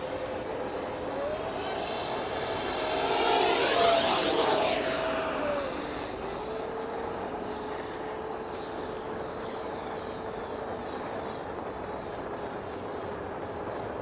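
Electric ducted-fan whine of an FMS BAE Hawk RC jet in flight. The whine rises in pitch about a second in and grows loudest around four to five seconds in. Near six seconds it falls in pitch and level, then carries on steadily.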